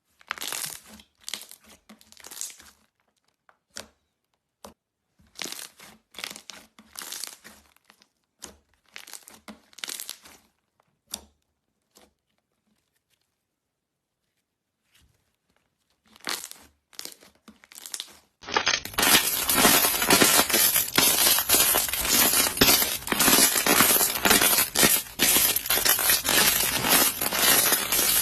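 Slime being squished and worked by hand, crackling and popping in short bursts with pauses, then crackling continuously and louder for the last third.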